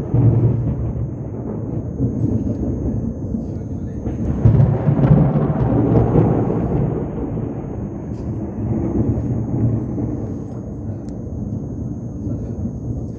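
Thunder rumbling during a thunderstorm: a long low rumble that swells about four seconds in and then slowly dies away.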